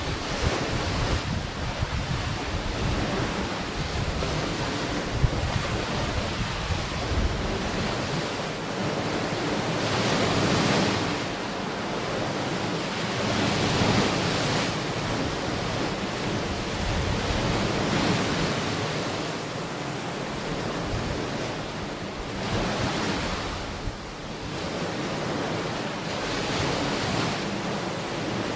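Ocean waves washing onto a beach, the surf swelling and ebbing every few seconds, with wind buffeting the microphone as a low rumble during the first several seconds.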